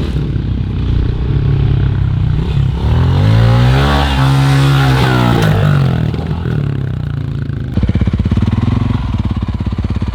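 Dirt bike engine revving up and back down, then running at low revs with a fast, even pulse from about eight seconds in.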